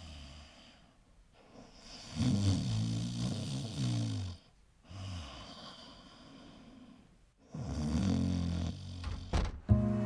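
A man snoring: two long, deep snores about six seconds apart, with quieter breathing between. Music starts near the end.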